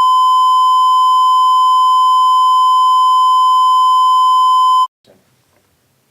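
Broadcast test tone: a single steady beep held at one pitch for about five seconds, then cut off suddenly. It marks an interrupted transmission.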